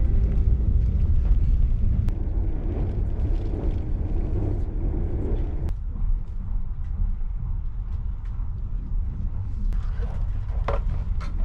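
Steady low rumble of the Kintetsu Hinotori express train running, heard from inside the carriage. Near the end come a few light clicks and rustles as the cardboard bento box is handled.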